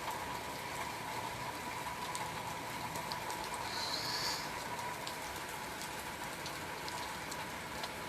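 Steady rain, an even hiss with scattered drip ticks. A brief high chirp sounds about four seconds in.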